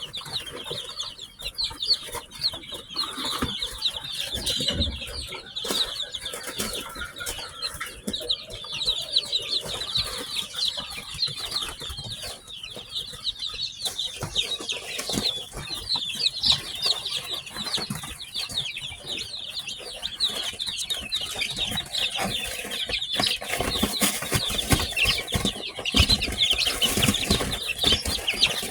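Newly hatched chicks peeping as a group: many short, high, falling chirps overlapping without a break. Underneath there are rustles and bumps, louder near the end.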